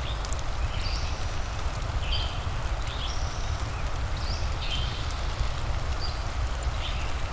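Steady rain ambience over a deep low rumble, with short bird chirps repeating once or twice a second and a few sharp crackles from a fireplace.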